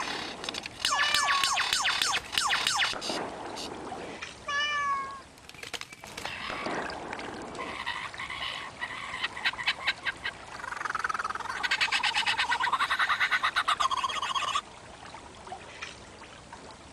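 Animal-like calls and clicks: scattered sharp clicks and a short pitched call, then a fast rattling trill from about eleven seconds in that cuts off suddenly near fourteen and a half seconds.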